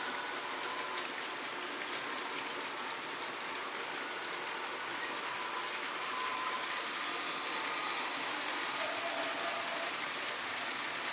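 H0-scale model trains running on the layout: a steady rolling whirr of small motors and wheels on the track, with faint thin squeals now and then, one a little before the end.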